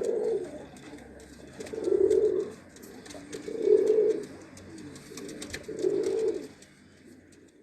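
Hybrid pigeon cooing: four low coos, each under a second long, about two seconds apart.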